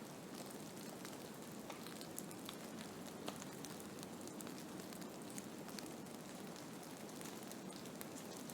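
Blizzard ambience: a steady hiss of wind-driven snow with many fine ticks scattered through it, at an even level throughout.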